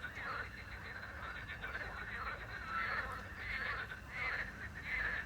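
Frogs croaking in a chorus, with a small owl's short whistled note near the middle and a faint steady cricket trill behind.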